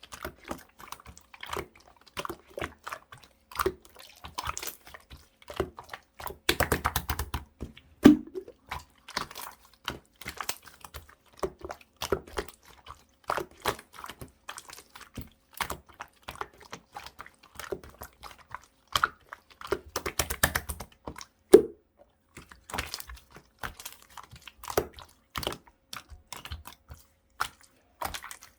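Orange clear slime being pressed, squeezed and poked by hand, giving irregular wet, sticky clicks and pops, with quicker flurries of clicks twice.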